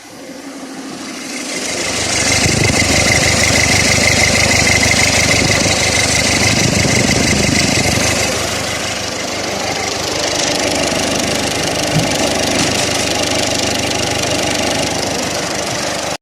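Car engine running, the sound building up over the first two seconds and then holding steady with a high whine, before cutting off suddenly at the end.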